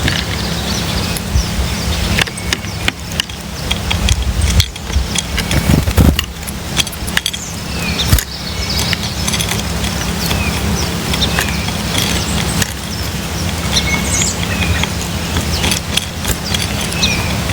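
Birds at a seed feeder: short high chirps scattered throughout, with many sharp clicks and knocks, over a steady low rumble.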